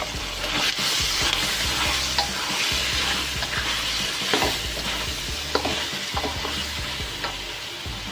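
Vegetables and seafood sizzling in a hot steel wok while a black spatula stirs and tosses them. There are a few sharp scrapes and knocks of the spatula against the pan, and the sizzle is loudest in the first few seconds.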